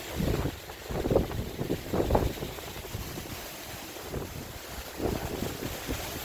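Gusty wind buffeting the microphone in several low, rumbling surges, over a steady hiss of ocean surf.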